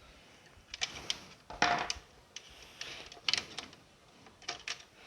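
Irregular clicks, taps and short scrapes from the parts of an opened kitchen mixer grinder being handled while its wiring is disconnected from the motor.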